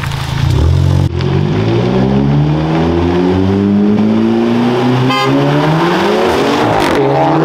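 Volkswagen Golf 7 GTI's turbocharged four-cylinder engine under hard acceleration, its revs climbing steadily through a gear. It is cut off abruptly about a second in, and the pitch dips and climbs again near the end, as at a gear change.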